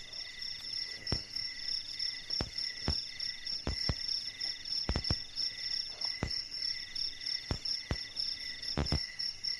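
Night chorus of crickets: several steady, finely pulsing high trills at different pitches. Irregular sharp knocks cut through it about once a second.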